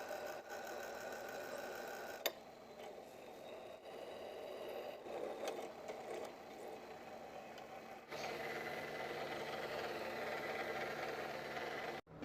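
A workshop machine's electric motor running with a steady hum. The sound changes abruptly twice: a sharp click about two seconds in, and the hum starting louder about eight seconds in.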